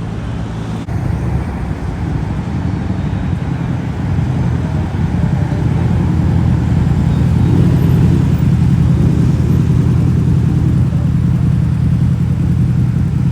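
A car engine running with a steady low rumble. It grows louder about four seconds in and then holds steady.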